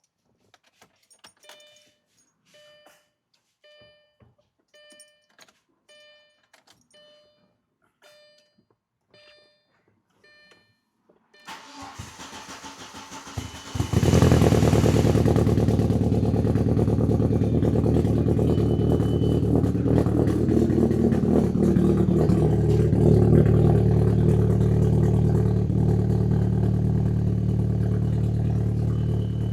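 A car's dashboard warning chime rings about a dozen times at an even pace; then the starter cranks for about two seconds and the Audi's engine catches about 14 seconds in, loud through a newly built custom exhaust with a screamer pipe, settling into a steady idle.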